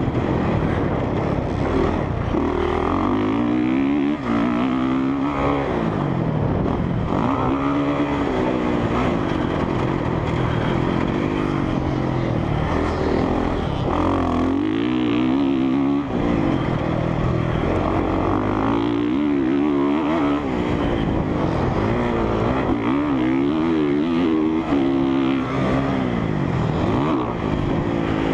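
Honda CRF450R single-cylinder four-stroke dirt bike engine being ridden hard, its pitch climbing and dropping again every few seconds as the throttle is opened and shut.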